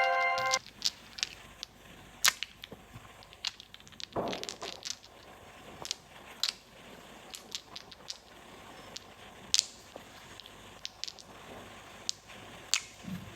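Small plastic toy pieces clicking and tapping as they are handled, with a short rustle about four seconds in. An electronic toy chime cuts off about half a second in.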